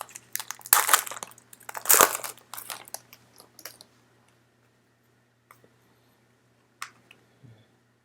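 Plastic wrapper of a trading card pack being torn open and crinkled: a quick run of crackles, loudest about one and two seconds in, thinning to a few faint clicks after about four seconds.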